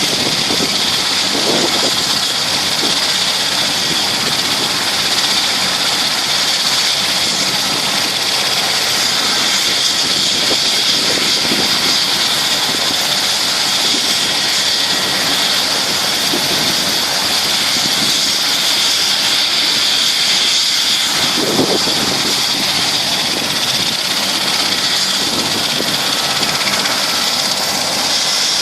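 Bell 429 helicopter's twin turboshaft engines running steadily, a constant high whine over a rushing hiss.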